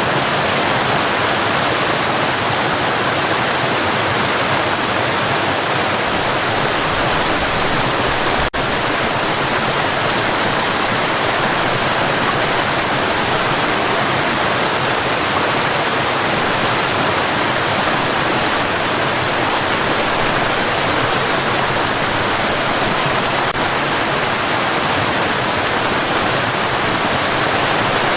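Steady white-noise hiss played as a sleep aid for babies, even and unchanging, with a momentary dip in level about eight and a half seconds in.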